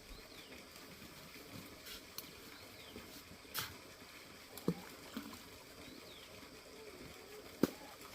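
Quiet outdoor background with faint, short bird chirps and a few sharp isolated clicks or knocks, the loudest near the end.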